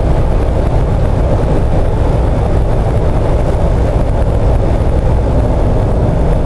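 Steady road and engine drone inside the cabin of a Jeep Wrangler JK cruising at about 65 mph on cruise control, its swapped-in Chevy 5.3 LS V8 running under light load.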